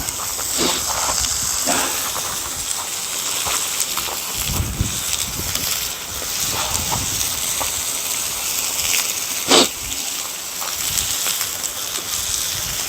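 Wood cooking fire hissing steadily with scattered crackles, and one sharp pop about three quarters of the way through.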